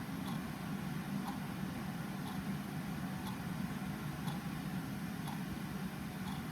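A clock ticking, one faint tick about every second, over a steady low hum.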